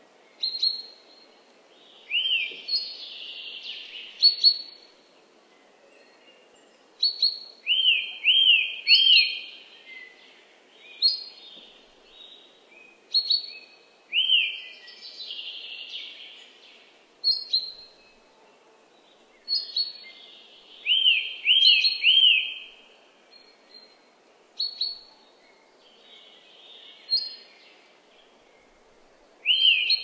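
Forest birdsong: birds singing short phrases of quick, arched whistled notes, repeated every couple of seconds, over a faint steady background hiss.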